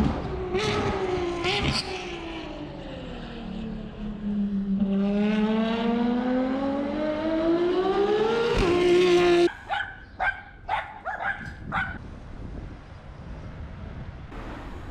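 Ferrari car engine on a test track: the revs fall, then climb in one long pull to a high pitch and cut off suddenly about nine and a half seconds in. A quick run of short, sharp bursts follows, then it quietens.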